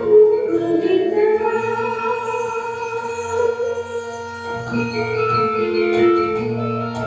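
Javanese gamelan music with a sung tembang line of long held notes over ringing metal mallet percussion. The percussion fills out and grows stronger about four and a half seconds in.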